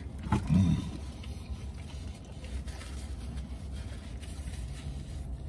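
A man's appreciative "mm" through a mouthful of Big Mac, then quiet chewing over a steady low vehicle rumble.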